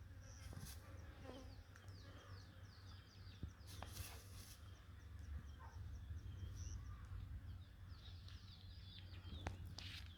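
Faint chatter of small birds: quick runs of short, falling high chirps in two bursts, over a steady low rumble, with a few sharp clicks.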